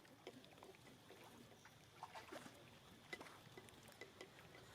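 Near silence, with a few faint, scattered short clicks.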